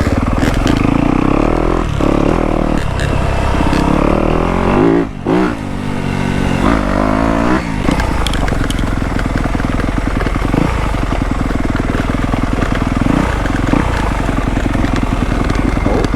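Dirt bike engine running along a woods trail. About five seconds in, the throttle is briefly shut and the revs climb again a couple of times, then the engine runs steadily.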